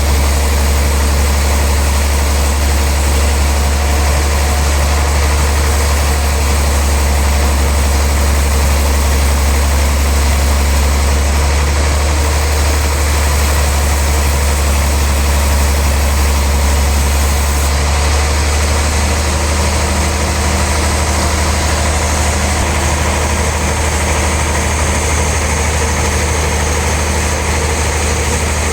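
A sawmill machine running steadily with a strong, constant low hum, its pitch shifting slightly about two-thirds of the way through.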